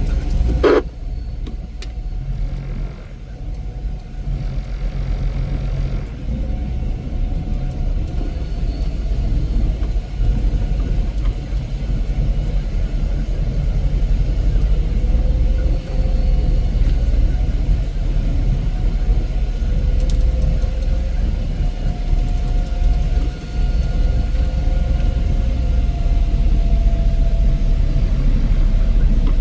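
Heavy snow-removal machinery running steadily with a deep, continuous rumble, with a short higher-pitched sound just under a second in.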